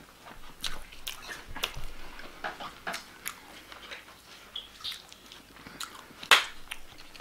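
A man chewing a mouthful of barbecued chicken fillet burger close to the microphone: irregular wet clicks of the mouth and jaw, with one sharper click a little after six seconds in.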